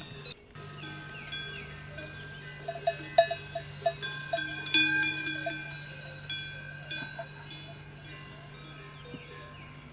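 Several metal bells clanking and ringing irregularly, their tones hanging and fading. The clanking is busiest and loudest in the middle, over a steady low hum.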